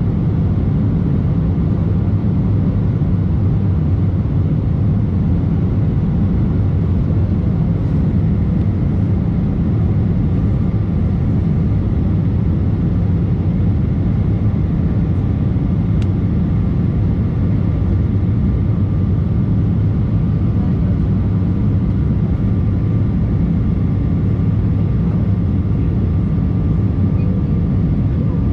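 Embraer E190 jet cabin noise: the GE CF34 turbofans and airflow make a steady, loud rumble with a low hum. A faint higher whine joins about a third of the way in.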